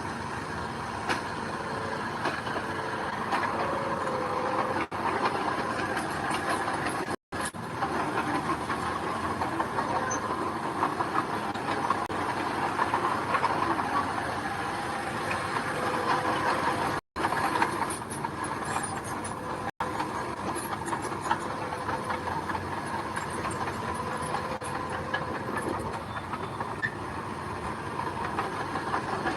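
Diesel construction machinery working on gravel: an engine running steadily with continual rattling and clanking. The sound drops out abruptly for an instant twice.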